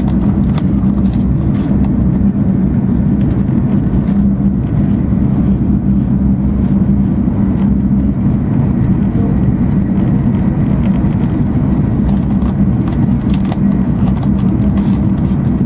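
Steady running noise heard inside the passenger cabin of an E2 series Shinkansen travelling at high speed: a low rumble of wheels and air with a constant hum, and faint light ticks now and then.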